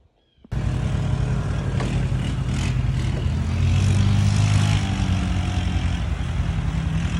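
A loud, steady engine-like drone with a low hum that shifts slightly in pitch, starting abruptly about half a second in.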